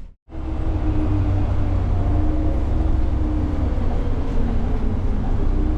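Interior of a moving city bus: a steady low engine and road rumble with a faint droning tone, starting right after a split-second gap.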